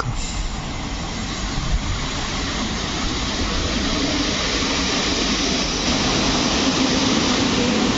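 PKP Intercity EP07 electric locomotive hauling a train of passenger coaches approaching along the track, its running noise growing steadily louder as it comes nearer.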